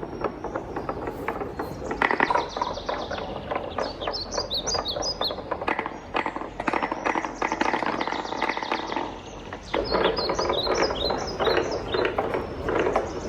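Wooden balls rolling and clattering down a wooden marble-run track, a continuous patter of rapid clicks and knocks. It swells into louder bursts about two seconds in and again about ten seconds in.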